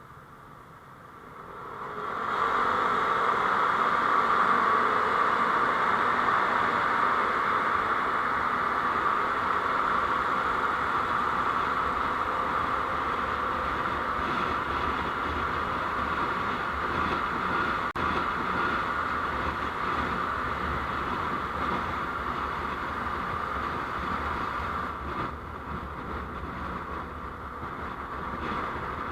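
Steady road and engine noise of a vehicle under way, picked up by a driving-record camera. It swells up over about two seconds as the vehicle gets moving, then holds steady, easing a little near the end.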